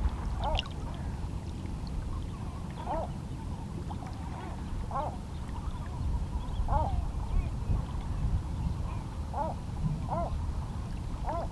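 Small waves lapping against shoreline rocks in a steady low wash, while a waterbird gives short calls about seven times, roughly every one to two seconds.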